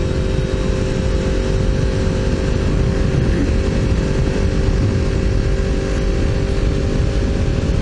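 Honda VFR750 V4 motorcycle engine running at a steady cruise, heard from a helmet camera under heavy wind rush.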